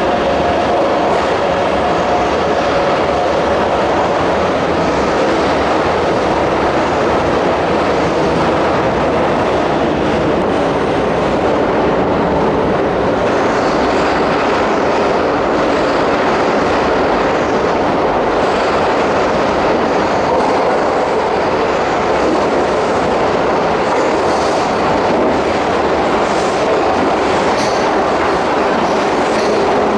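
Keihan commuter train running along the platform in an underground station, a continuous loud rumble of wheels and motors. A pair of steady tones fades in the first few seconds, and sharp clacks come near the end.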